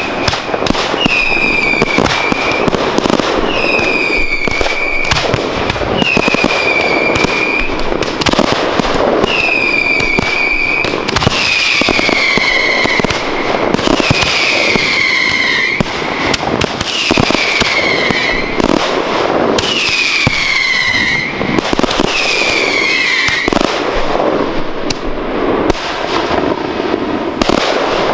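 Fireworks display: a run of pyrotechnic whistles, about a dozen, each lasting about a second and dropping slightly in pitch, roughly one every two seconds, over continuous crackling and sharp bangs of bursting shells. The whistles stop a few seconds before the end while the crackle and bangs go on.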